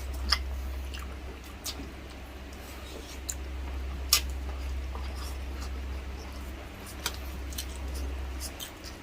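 Mouth sounds of eating braised pork pata humba: chewing with scattered short, sharp smacks and clicks. A steady low hum stops near the end.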